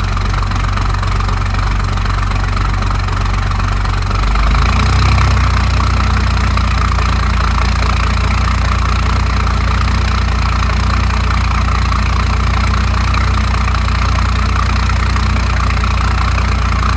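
1991 Dodge Ram's 5.9-litre Cummins inline-six turbo diesel running cold just after a cold start in sub-zero weather, with a steady diesel clatter. About four seconds in its speed changes and it runs a little louder, then holds steady.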